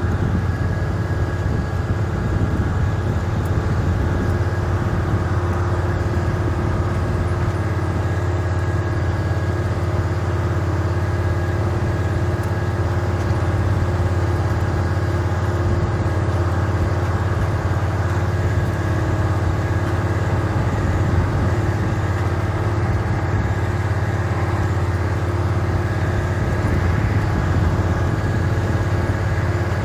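A vehicle engine running at a steady speed: an even, deep drone that does not change.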